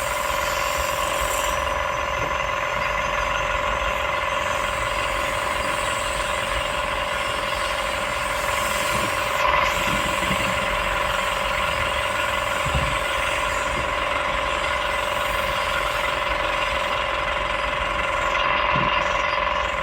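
Hydraulic excavator running steadily: a constant engine drone with a steady whine over it, and a brief louder moment about halfway through.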